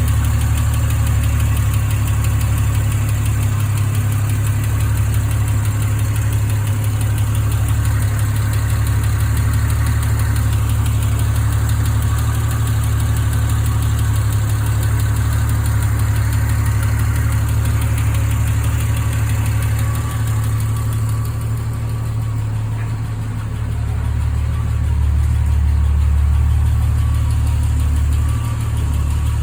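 Triumph TR6's 2.5-litre straight-six engine idling steadily as it warms up after a cold start.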